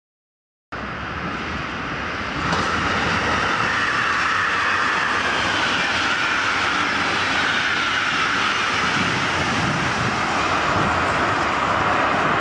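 Electric passenger train passing at speed: a steady rush of wheels on rails and air noise that cuts in suddenly about a second in and grows louder a moment later.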